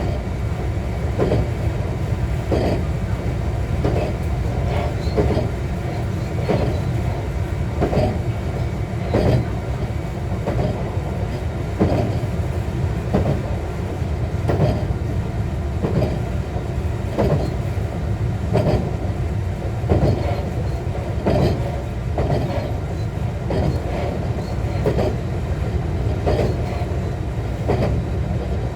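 JR West 125 series electric railcar running at steady speed, its wheels clicking over rail joints at an even pace, about one joint every 1.3 seconds, over a steady low rumble.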